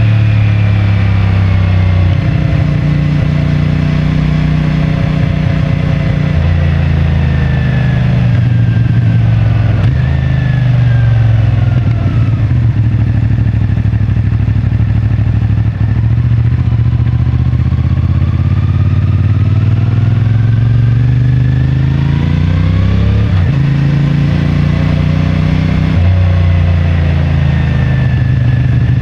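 CFMoto 450MT's parallel-twin engine and stock exhaust running on the move. The engine note rises and falls with the throttle, with a climb and a sudden drop about three-quarters of the way through, as at an upshift.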